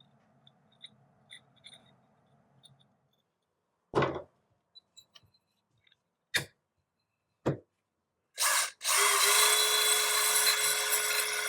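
A small power tool, drill-like, is started in three or four short blips, then about nine seconds in it runs on steadily with a hissing, rasping sound and a steady hum.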